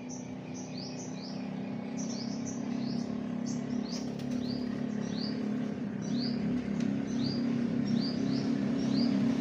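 Small bird chirping repeatedly, short high chirps about two or three a second, over a steady low drone that grows louder toward the end.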